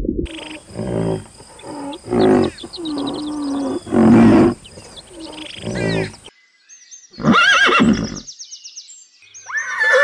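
A string of animal calls. Repeated pitched, gliding calls fill the first six seconds, then a short loud call comes about seven seconds in over faint high chirping. Near the end a horse whinnies.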